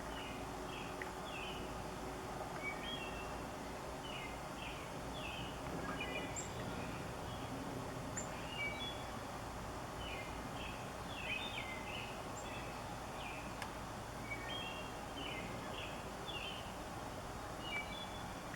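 Bird calling in short clusters of quick chirping notes, repeated every second or two over a steady low background noise.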